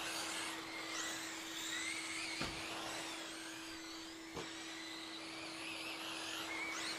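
Several radio-controlled short-course trucks' electric motors whining around the track, their pitch rising and falling as they speed up and slow down, over a steady low hum. Two short knocks sound, about two and a half and four and a half seconds in.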